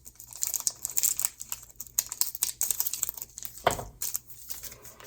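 Trading cards being handled and shuffled through by hand: a run of small clicks and crinkling rustles of card stock and foil, with one louder rustle a little before the end.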